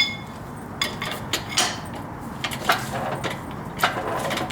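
A few scattered light metallic clinks and knocks as the D16Z6 engine and transmission are being lowered and guided into the Civic's engine bay.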